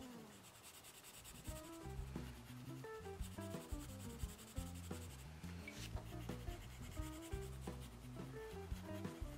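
Red colored pencil rubbing on drawing paper as an area is shaded in, with soft background music.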